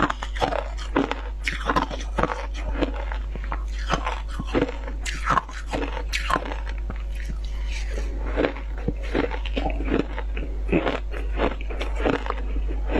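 Frozen passion fruit shaved ice being bitten and chewed, a steady run of irregular crisp crunches, several a second, over a steady low hum.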